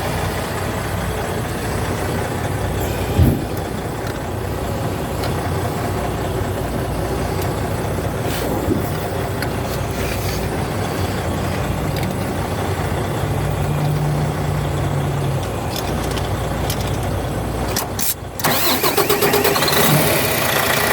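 Semi truck's diesel engine cranking on its starter. There is a sharp knock about three seconds in, and just after eighteen seconds the sound drops out briefly before the engine runs louder, its pitch wavering.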